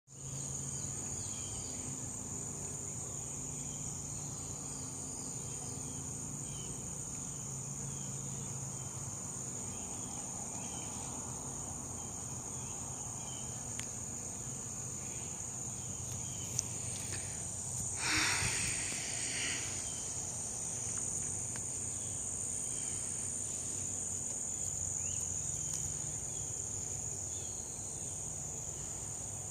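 Steady high-pitched chorus of crickets, with a brief louder sound about eighteen seconds in.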